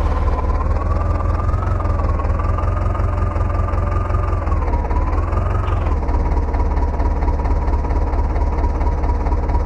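Tractor engine running loud with rapid, even firing pulses. Its pitch wavers up and down a little over the first six seconds, then holds steady.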